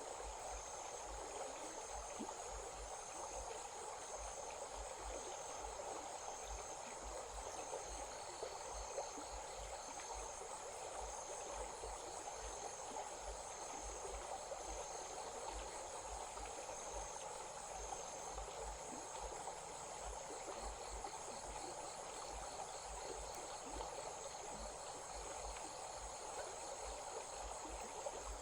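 Insects calling at dusk, a high pulsing trill repeating about once a second, over the steady rush of a stream. A second, lower pulsed trill joins briefly twice.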